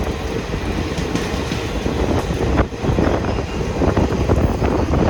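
Express train running over a long river bridge: a steady heavy rumble of wheels on the rails with irregular clattering clicks.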